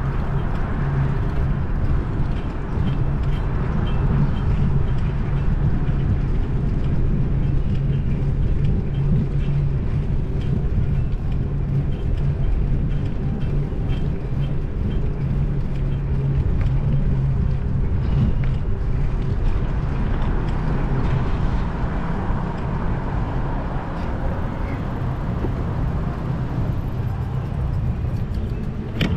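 Steady rumble of wind buffeting the microphone on a moving bicycle, mixed with road traffic noise.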